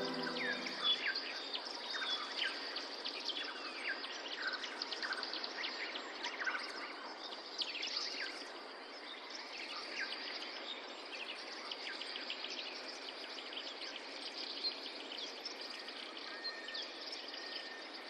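Many small birds chirping and twittering, a dense overlapping chorus of short quick calls over a steady background hiss.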